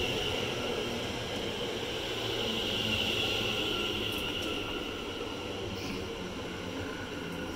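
Greater Anglia Class 720 Aventra electric train running through a station at speed: a steady rush of wheels on rail with a high hiss over it, loudest about three seconds in and then slowly easing.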